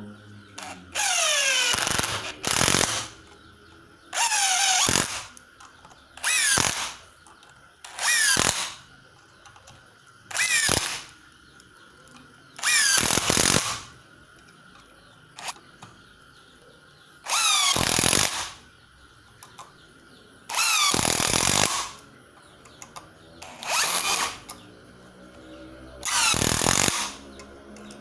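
Stanley SBI201D2K 18V cordless impact driver run in about eleven short trigger pulls, each about half a second to a second long. After each release the motor's whine falls away as it spins down.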